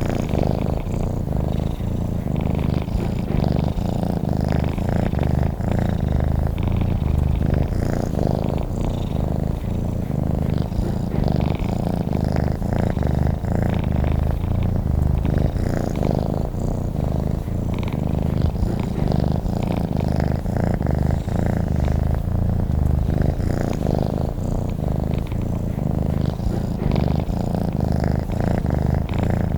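Domestic cat purring steadily and continuously, a deep, low rumble with a fast fluttering pulse.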